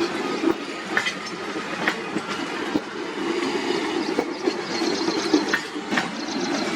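Passenger train running on the track, its coach wheels clattering and clicking irregularly over rail joints above a steady rumble, with faint high wheel squeal in the middle.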